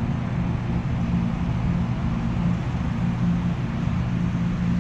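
Strong wind buffeting the microphone: a steady, loud rush with heavy low rumble.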